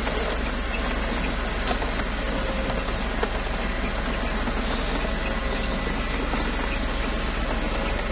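Small crawler bulldozer's diesel engine running under work, with a steady mechanical clatter and two brief sharp knocks in the first few seconds.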